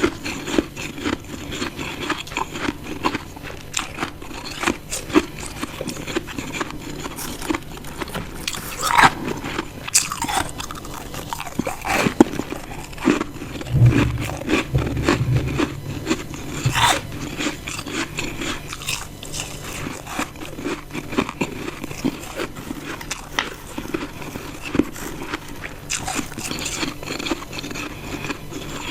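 Close-miked biting and chewing of ice chunks: a dense run of crunches and sharp cracks as the ice breaks between the teeth, with a brief low rumble about halfway through.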